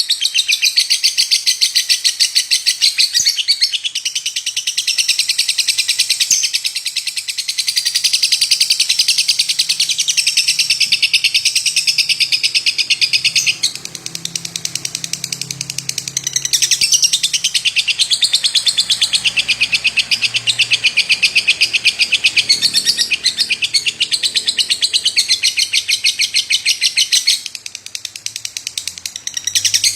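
Lovebird singing a long, unbroken chatter of very rapid, high chirps, with brief dips about halfway through and again near the end.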